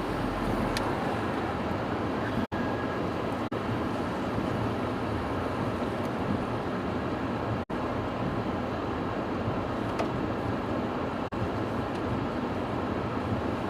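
Steady road and engine noise of a moving car heard from inside the cabin, with several brief total cut-outs in the audio.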